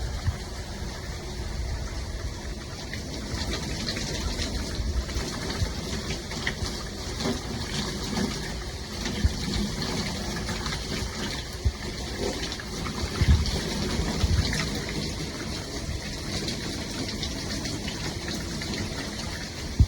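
Water spraying steadily from a handheld shower head, with a couple of low bumps about two-thirds of the way through.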